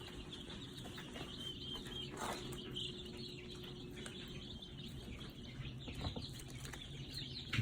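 Baby poultry peeping softly, scattered high cheeps with a couple of longer held peeps in the middle, over a steady low hum. A short knock right at the end.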